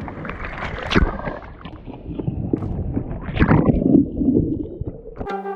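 Rough splashing water and wind buffeting the microphone, with sharp knocks about a second in and again past the middle. Music starts abruptly near the end.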